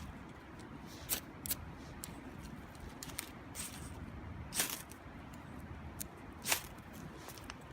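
Wood fire crackling in a small wood stove, with scattered sharp pops, the loudest about four and a half and six and a half seconds in, over a low steady rumble.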